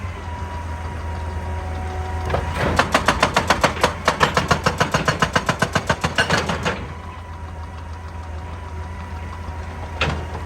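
Excavator's diesel engine running steadily. About two and a half seconds in, a hydraulic breaker starts hammering rock in rapid even blows, about six a second, and stops after about four seconds. A single sharp knock comes near the end.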